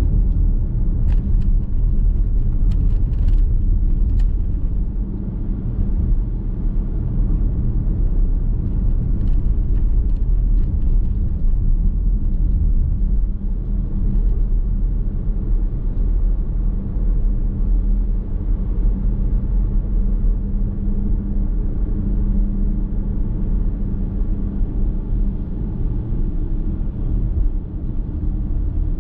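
Steady low road and tyre rumble of a car driving, heard from inside the cabin. A few light clicks come in the first few seconds and again around ten seconds in.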